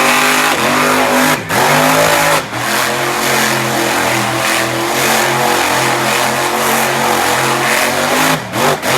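Monster truck engine revving hard. Its pitch swoops down and back up several times in the first few seconds, with a few brief cut-offs of the throttle, the last ones near the end.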